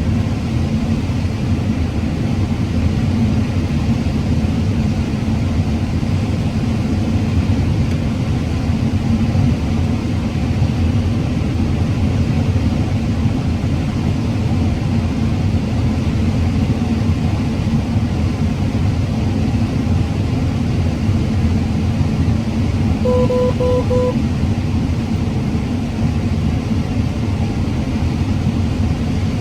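Combine harvester running steadily as it harvests corn, a steady low drone. About 23 seconds in, three short electronic beeps sound.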